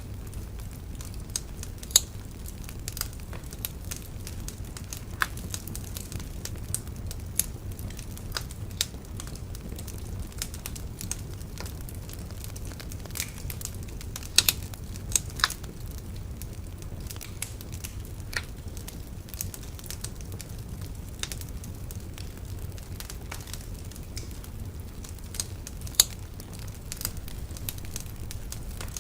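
Wood bonfire burning with a steady low rumble and irregular sharp crackles and pops, a few louder snaps about 2 seconds in, in the middle and near the end.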